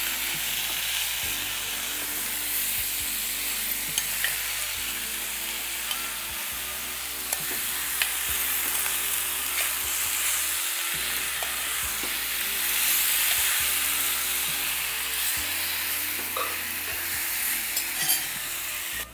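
Large chicken pieces and potato chunks frying in masala in a pan: a steady sizzle, with a spatula stirring and clicking against the pan now and then. Soft background music plays underneath.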